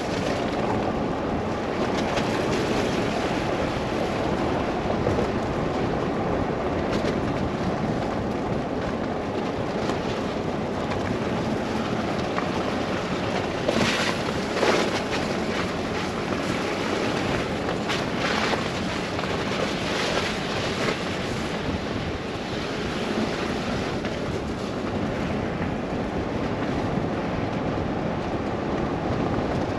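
Steady rushing wind and road noise of a car driving through a snow blizzard, with a few brief, louder swishes about halfway through.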